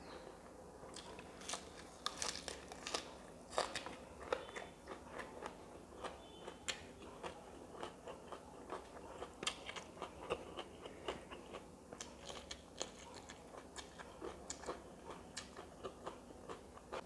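Close-miked eating: a person chewing with frequent crunches and small wet mouth clicks, irregular throughout, as he bites raw spring onion and eats rice and fish by hand.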